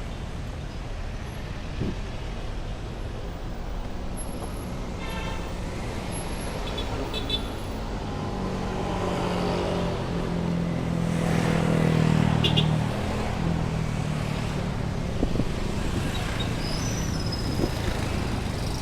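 Rush-hour street traffic: steady noise of passing cars and motorcycles. A large vehicle's engine grows louder and passes close about ten to thirteen seconds in, and a few short horn toots sound along the way.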